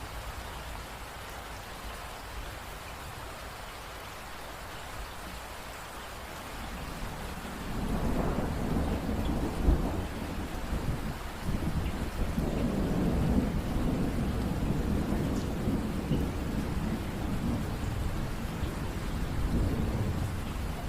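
Steady rain hissing; about seven seconds in a long low roll of thunder starts, peaks sharply near ten seconds and keeps rumbling on with the rain.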